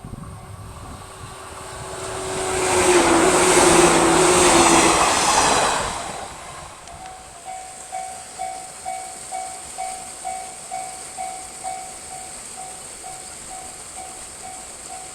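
A train passes close by: a rush of wheel and running noise with a steady tone in it builds to its loudest about three seconds in and fades out by about six seconds. After that, the level crossing's electronic warning bell rings on alone in an even beat, about two strokes a second.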